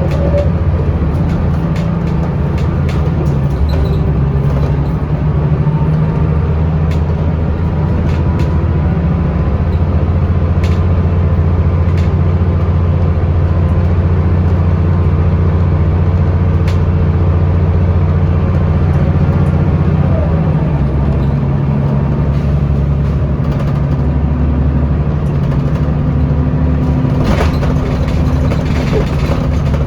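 Scania L94UB bus engine running under way with its ZF automatic gearbox, heard from on board: a steady low drone whose note shifts about two-thirds of the way through, with scattered rattles and clicks from the bus body and a brief hiss near the end.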